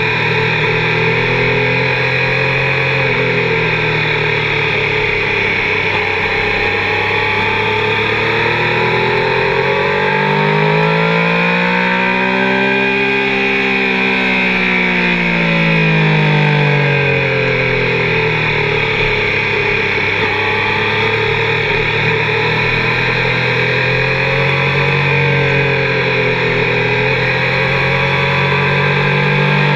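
Triumph sportbike's engine running hard at high revs, heard from the bike itself; its pitch climbs to a peak about halfway through and falls away again.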